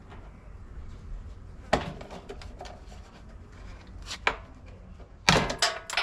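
Sharp knocks and clicks of plastic car trim and retaining clips being prised and handled: a single knock about two seconds in, another about four seconds in, then a quick burst of clatter near the end.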